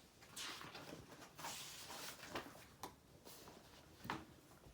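Faint rustling and a few soft clicks and taps, with a couple of brief swishes: quiet handling noise such as a picture book being opened and its pages turned.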